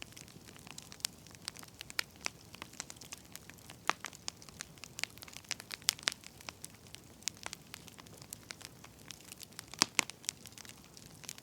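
Burning firewood crackling: irregular sharp pops and snaps over a faint hiss, with a few louder pops about four, six and ten seconds in.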